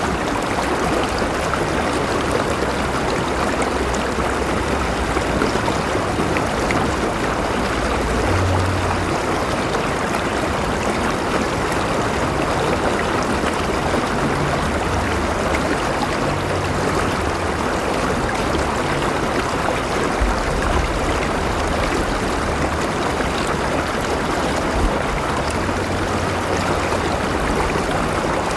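A river flowing with a steady rushing, babbling sound, with some low rumble beneath.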